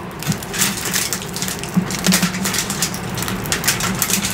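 Person chewing a mouthful of crunchy food close to the microphone, with many irregular crisp crunches.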